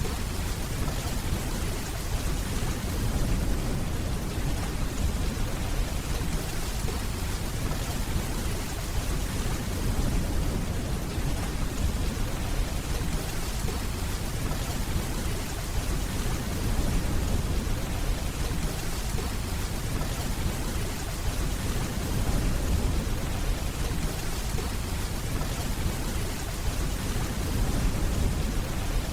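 Steady rainfall, an even hiss, with a low rumble of distant thunder underneath.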